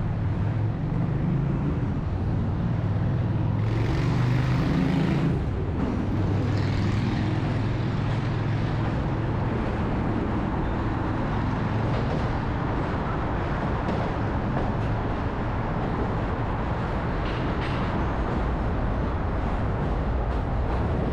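City road traffic: motor vehicles running and passing steadily, with a heavy engine hum in the first few seconds and a short hiss about four seconds in.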